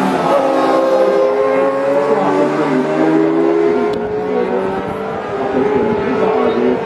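Racing sidecar outfits at high revs, several engines at once. Their pitch eases down slowly over the first few seconds, then holds steady.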